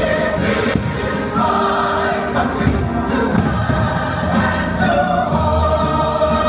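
Choir singing with musical accompaniment, from a fireworks show soundtrack.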